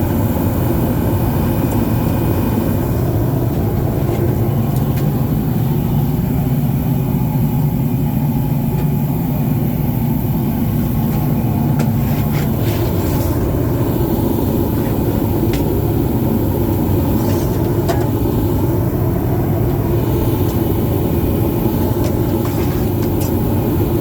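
A steady low machine rumble with a faint hum in it, with a few faint clicks and taps scattered through it.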